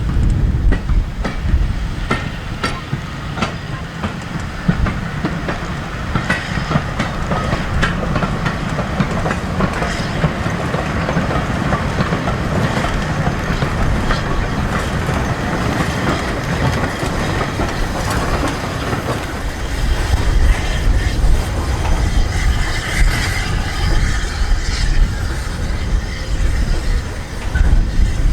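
Steam-hauled heritage train running along the line: a steady rumble with the wheels clicking over rail joints, and the rumble grows louder after about twenty seconds.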